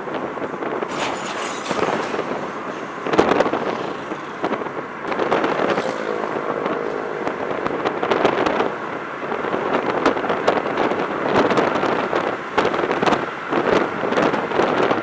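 Road traffic: vehicles passing close by on a busy road, with a dense, fluctuating rush and many short clicks and knocks.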